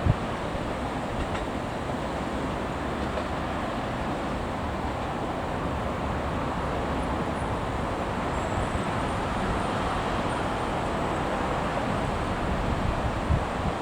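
Electric train running past on the tracks, a steady noise that holds level throughout.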